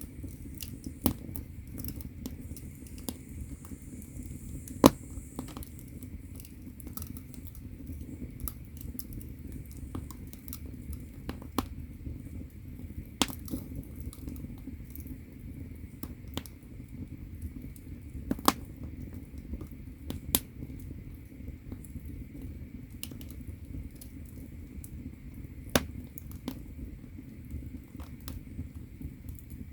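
Firewood burning in the firebox of a Korean ondol furnace (agungi): irregular sharp crackles and pops over a low steady rumble of the fire, the loudest pop about five seconds in.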